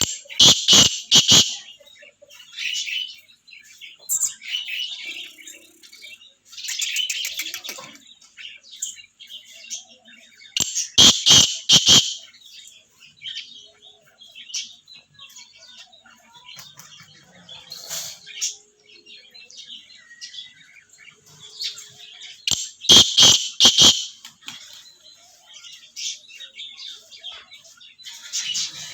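Black francolin (kala teetar) calling three times, about eleven seconds apart, each call a loud burst of four or five harsh notes. Budgerigars chirp and chatter throughout.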